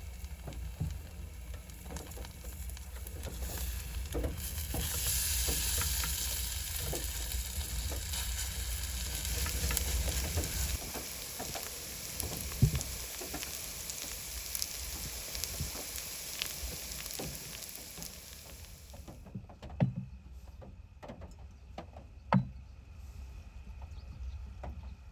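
Food frying in a pan, a steady sizzle that swells and then stops abruptly near the end, followed by a couple of light knocks.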